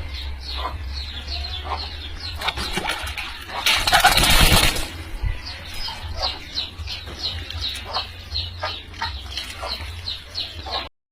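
A small bird cheeping over and over in short, high, falling peeps, about two to three a second. About four seconds in comes a loud, noisy rustle of about a second, with a low hum underneath throughout. The sound cuts off abruptly near the end.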